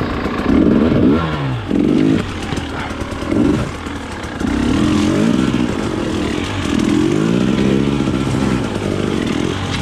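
Off-road trail motorcycle engine revving up and down repeatedly as the throttle is worked, about five surges in pitch over a steady lower running note.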